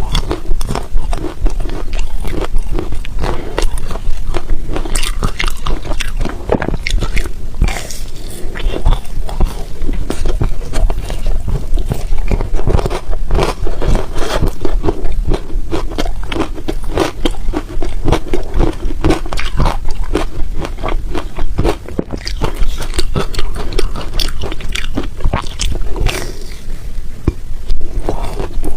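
A person biting and chewing ice close to the microphone: a dense, irregular run of loud crunches and cracks.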